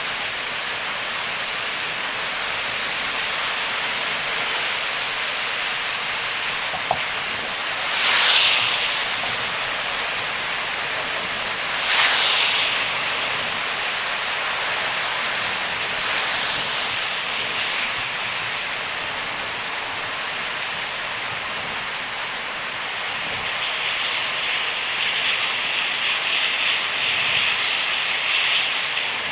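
Heavy rain on a moving car with a steady hiss of tyres on a soaked road. Two louder swooshes come about 8 and 12 seconds in, and from about 23 seconds on the rain turns to a denser, crackling patter.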